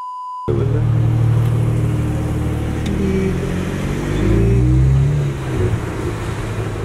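A steady high test-card beep that cuts off abruptly about half a second in. Then a BMW 335i's turbocharged straight-six engine runs at low speed with a low note. The note rises in pitch between about three and five seconds in, then drops back.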